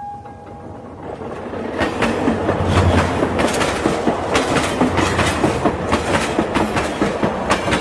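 A horn note fading out, then from about a second in a loud vehicle clatter of rapid, irregular clicks and rattling that keeps going.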